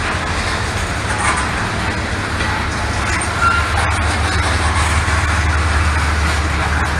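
Norfolk Southern freight train passing, a steady rumble with rolling wheel noise.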